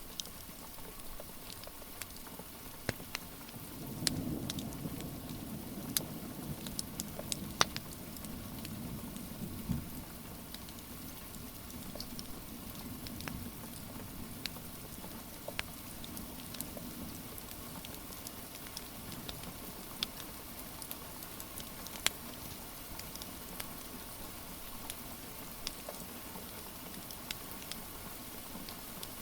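Steady rain pattering, with the wood fire in a fireplace crackling in scattered sharp snaps. A low rumbling swell comes in about four seconds in and fades over several seconds.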